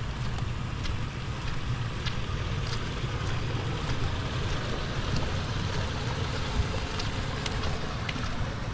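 Steady rain hiss with scattered sharp ticks, and wind rumbling on the microphone.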